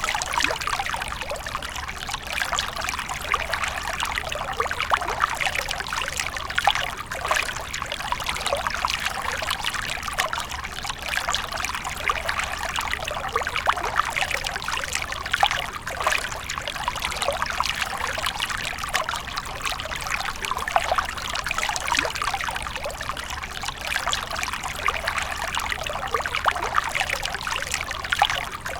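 Water from a fountain falling and splashing steadily into a pool, a continuous trickling patter.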